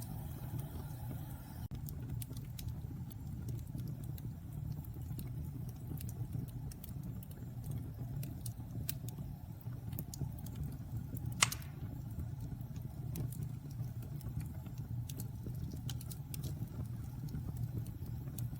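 Wood fire in a fireplace crackling: scattered sharp pops and snaps over a steady low rumble, with one louder pop about eleven seconds in.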